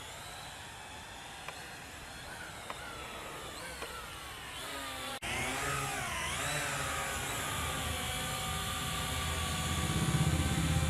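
Syma X8HG quadcopter's motors and propellers whining, the pitch gliding up and down as the throttle changes. The sound breaks off abruptly about halfway through, after which the whine carries on over a louder low wind rumble that grows toward the end.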